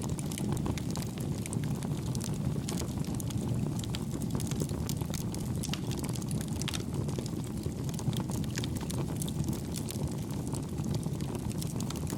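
Campfire burning with a steady low rush of flames and frequent small, soft crackles and pops.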